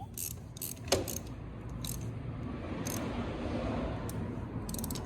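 Hand tools and steel bolts clinking while new sprocket bolts are fitted on a Yamaha Banshee, a few scattered metallic clicks with a quick run of rapid clicks near the end, over a low steady hum.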